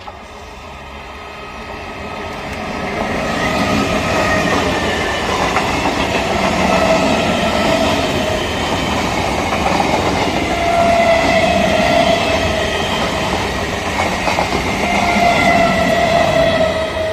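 Indian Railways train passing close by. It grows louder over the first few seconds, then holds a steady running noise, with a whining tone that falls slightly in pitch several times.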